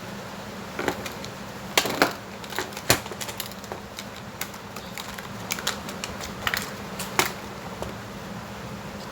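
Irregular light clicks and taps from tools and hard plastic parts being handled, several sharper knocks about two to three seconds in, over a steady low hum.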